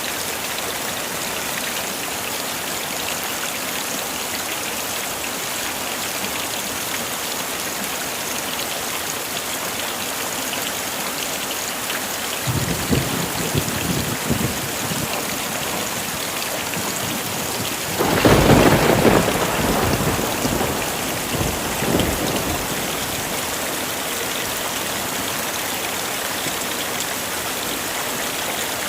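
Heavy rain falling steadily, with a low roll of thunder about twelve seconds in and a louder thunderclap about eighteen seconds in that rumbles away over the next few seconds.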